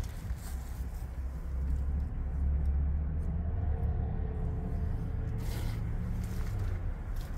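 MAN 32.414 concrete pump truck's diesel engine running steadily, a low rumble, with a faint wavering whine in the middle and a brief scrape about five seconds in.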